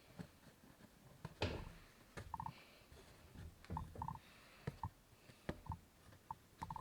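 Faint hand-embroidery handling sounds: irregular small clicks of a needle piercing fabric and the soft rasp of thread drawn through, with a louder pull about a second and a half in.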